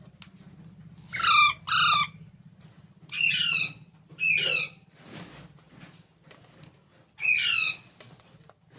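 Baby parrot squawking five times: harsh, loud calls that drop in pitch, two quick pairs and then one more near the end.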